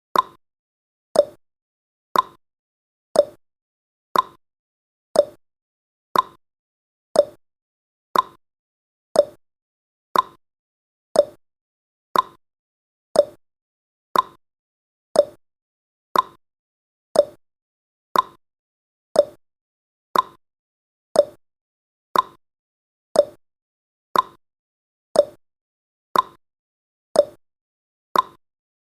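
Countdown timer sound effect: a short tick once every second, each one dying away quickly, steady throughout.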